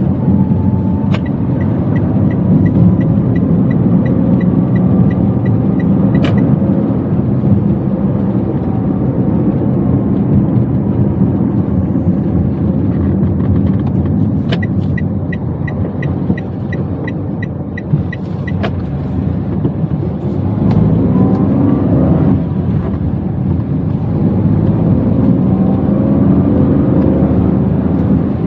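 Inside a Toyota Wigo on the road: steady engine and tyre rumble. Twice a turn-signal indicator ticks for about five seconds, a bit over two ticks a second, each run starting and ending with a sharper click. Near the end the engine note rises as the car accelerates.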